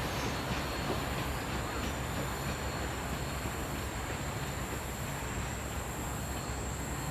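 Steam-hauled passenger train rolling past, its wheels running on the rails with a steady rumble and some faint clicks early on.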